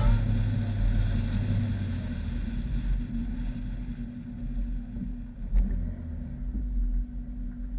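A car engine running with a low, steady rumble.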